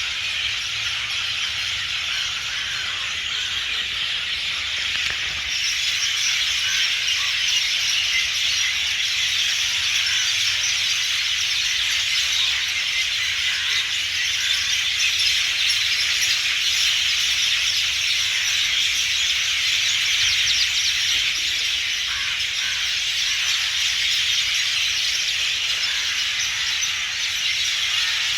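Dense, steady, high-pitched chorus of many small birds and insects calling at once, a continuous wash with no single song standing out; a higher layer joins about five seconds in.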